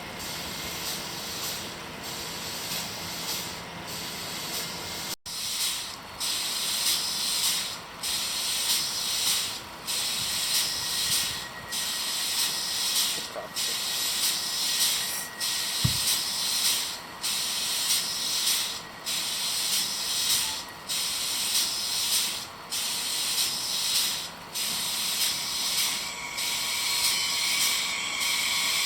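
Train rolling past, its noise a steady hiss that swells and dips at an even pace, roughly once a second. There is a sharp break about five seconds in and a single low thump midway.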